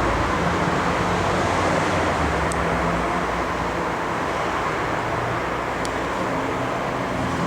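Steady street traffic noise: an even hiss of passing cars with a low engine rumble underneath.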